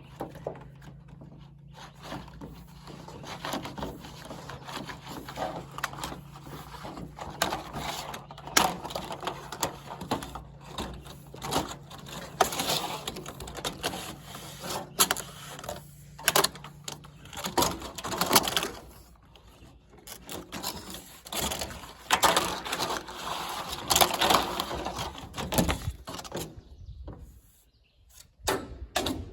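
Irregular knocks and clicks over a steady low hum; the hum stops about two-thirds of the way through.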